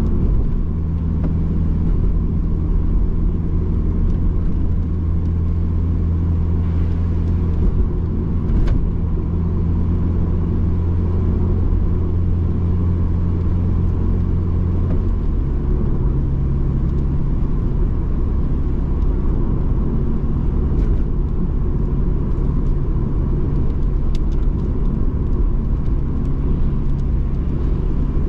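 Subaru Impreza GDB's turbocharged flat-four engine running at steady cruise, with road noise, as heard from inside the cabin. About halfway through, the engine note changes abruptly to a different steady pitch.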